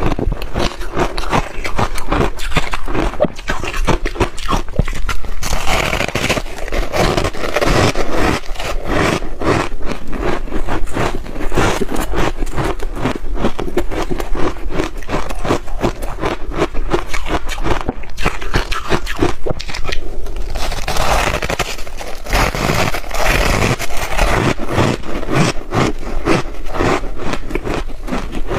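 Close-miked chewing of crunchy ice: a continuous dense run of sharp cracking crunches.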